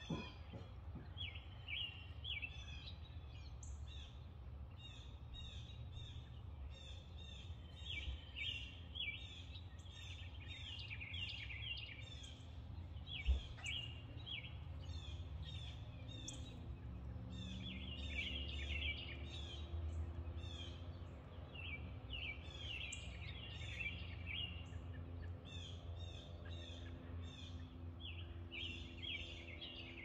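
Small birds chirping: bursts of rapid chirps and a steady run of short high notes, over a low outdoor rumble. A single sharp tap sounds about thirteen seconds in.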